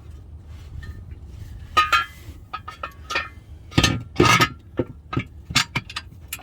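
Steel parts and hand tools clanking and clinking together as a transmission crossmember and its bolts are fitted: a string of sharp knocks with a short metallic ring, loudest about two seconds in and again around four seconds in.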